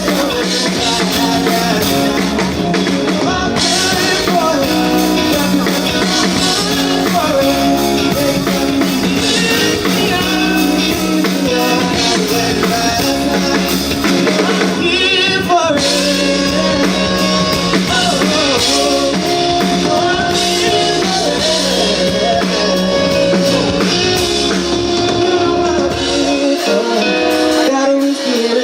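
Amplified live band music: a pop-rock song with guitar, drums and singing.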